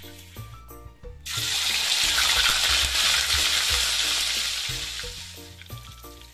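Tofu cubes frying in hot oil in a steel wok, a loud sizzle that starts suddenly about a second in and dies away near the end, over background music with a steady beat.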